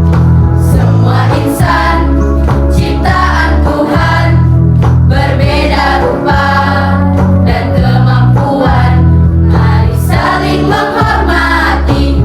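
A junior high school choir singing in Indonesian over instrumental accompaniment with a strong, sustained bass line that changes notes every second or two.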